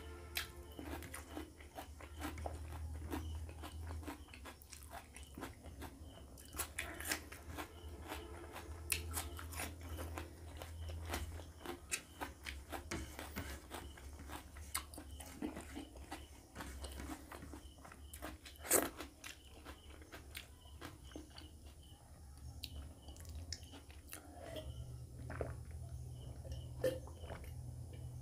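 A person chewing close to the microphone, with crunching and many small wet mouth clicks. One sharper click stands out about two-thirds of the way through.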